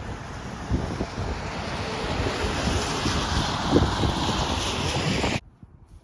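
Rushing wind noise with low buffeting thumps on the microphone, growing louder, then cut off abruptly about five and a half seconds in.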